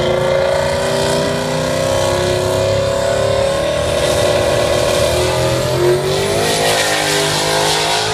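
Drag car's engine running loud and steady at high revs on the starting line. About six seconds in it launches and pulls away down the strip, the engine pitch shifting as it goes.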